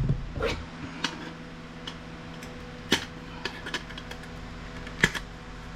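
Scattered light clicks and taps of small parts and tools being handled while a piece of electronic equipment is taken apart by hand, over a steady low hum.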